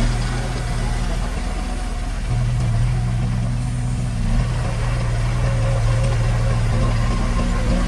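Diesel engine of heavy construction equipment running steadily, getting a little louder about two seconds in.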